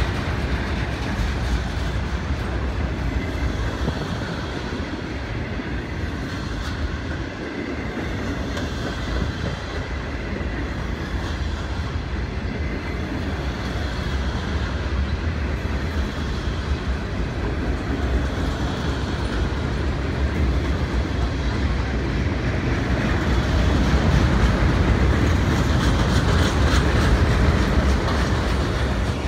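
Norfolk Southern freight train's cars rolling past steadily, wheels running on the rails, a little louder in the last few seconds.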